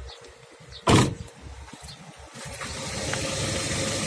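One loud thump about a second in, then from about two and a half seconds a Nissan Presage's engine running steadily.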